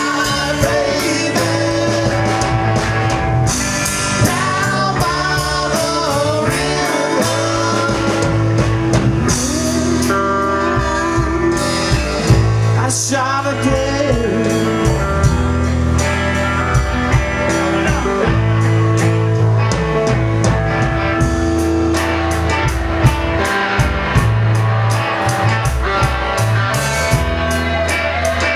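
Live rockabilly blues band playing, with electric guitar lines bending in pitch over a steady drum kit beat.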